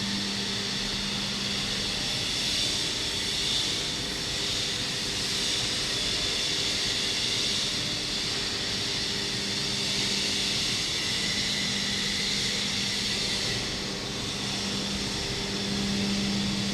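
Road sweeper truck running steadily: a high rushing noise from its vacuum fan over a low engine hum, the hum fading in the middle and returning near the end.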